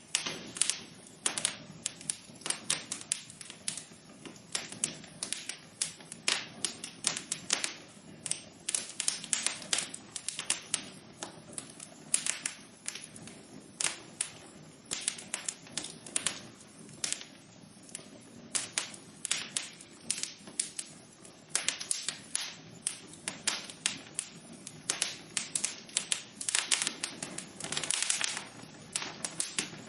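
Wood fire burning in a fireplace, with irregular crackles and pops over a steady low hiss of the flames.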